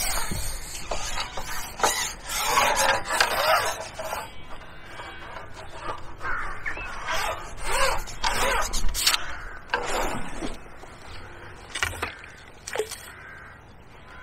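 A series of short, harsh bird calls, coming irregularly every second or two.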